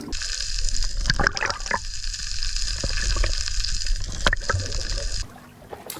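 Water sloshing and gurgling with a low rumble and a few knocks, which cuts off suddenly about five seconds in.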